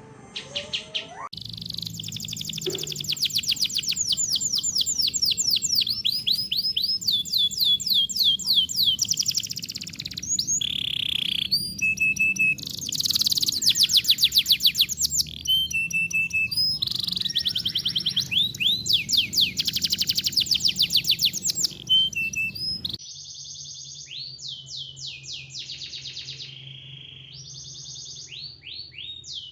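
Songbird song compiled as masteran for caged birds to copy: dense, rapid, high trills and repeated chirps. The recording changes abruptly about a second in and again near the end.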